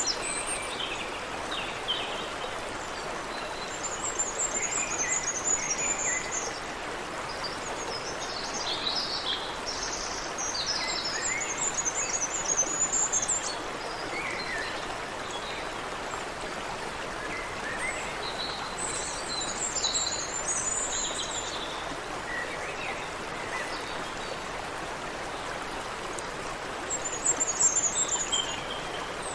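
Water of a small stream running steadily, with several birds singing over it: repeated high trills and scattered shorter chirps and whistles.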